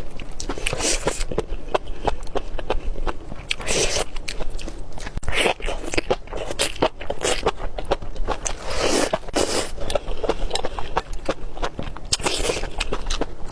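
Close-miked mukbang eating: a person biting and chewing food, with dense wet crackling clicks coming in bursts every second or two.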